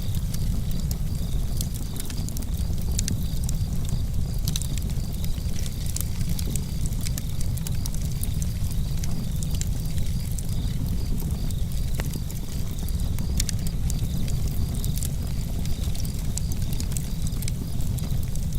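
Campfire crackling: a steady low rumble of burning with many irregular sharp pops and snaps.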